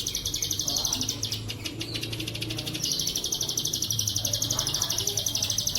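Ciblek sawah (prinia) song of the 'bren' type: a high, rapidly pulsing buzzy trill like a cicada's, held on with a slight surge in strength about halfway through. A low steady hum sits under it.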